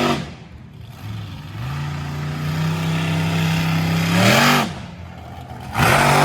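Monster truck engine holding a steady note, then revving up hard in a loud surge about four seconds in and again near the end.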